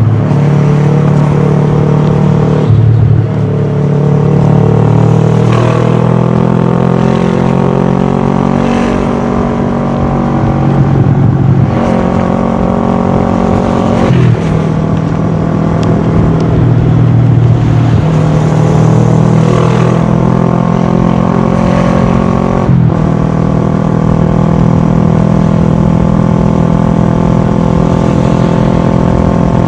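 Kawasaki ER-6f's parallel-twin engine running through a full Akrapovic exhaust system while riding. The engine note climbs steadily and drops back sharply four times, at about 3, 12, 14 and 23 seconds in.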